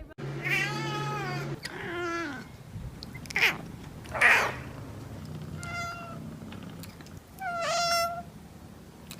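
A domestic cat meowing several times. The first call is the longest, over a second, and a shorter one follows at once. Two brief rough, noisy sounds come in the middle, then two more meows near the end.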